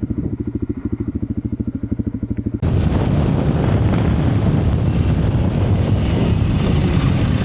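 Motorcycle engine idling with an even, fast pulsing beat. About two and a half seconds in, it switches abruptly to a louder, steady rush of motorcycle engine and wind noise, as when riding at speed.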